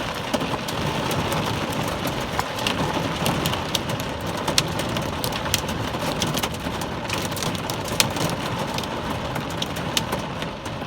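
Heavy rain pouring onto a car's roof and windshield, heard from inside the cabin: a steady wash of rain with many scattered sharp ticks of individual impacts on the bodywork.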